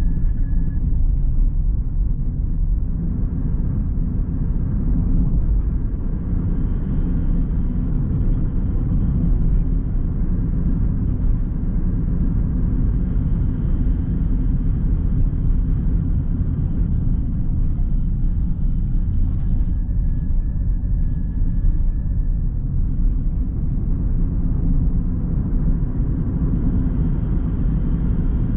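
Car driving: a steady low rumble of road and engine noise, with faint brief higher whines now and then.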